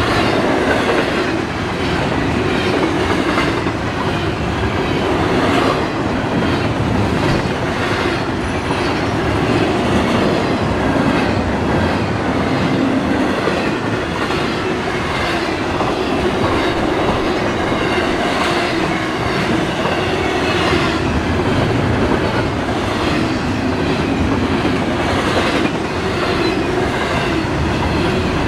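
Double-stack intermodal freight train passing at speed: steady rolling noise of steel wheels on rail, with a regular clickety-clack as the wheel sets of the well cars cross rail joints.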